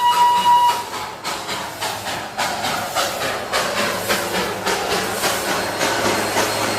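Darjeeling Himalayan Railway toy train running, with an even rhythmic beat of about two to three knocks a second over a hiss. A steady high tone cuts off just under a second in.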